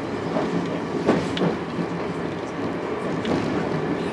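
Chichibu Railway 7500 series electric train running, a steady rumble with a few sharp clicks of the wheels over rail joints.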